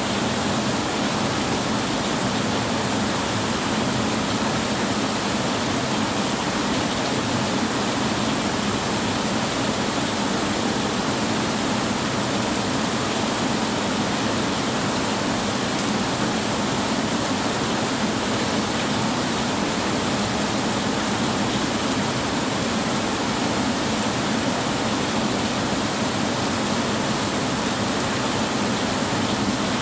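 Steady heavy rain: an even, unbroken hiss with no thunderclaps.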